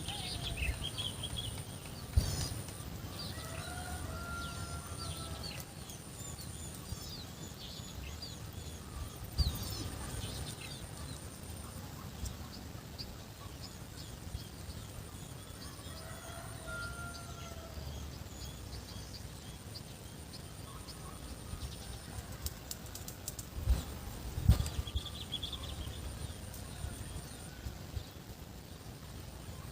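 Rural morning ambience: many small birds chirping, over a steady high-pitched buzz that stops and starts. Twice, a longer bending call sounds, and there are a few scattered knocks, the loudest near the end.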